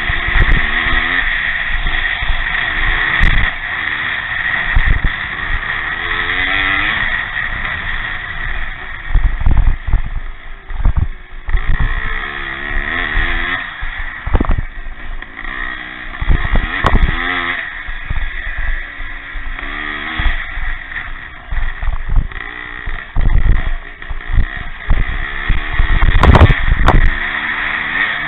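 Pre-65 vintage motocross motorcycles racing, their engines repeatedly rising and falling in pitch as riders open and shut the throttle. There are louder surges as bikes pass close.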